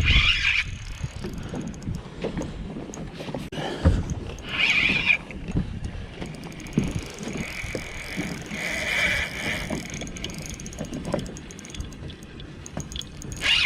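Birds of a feeding flock calling overhead in short cries, three or four times, over low knocks and water and wind noise from the boat.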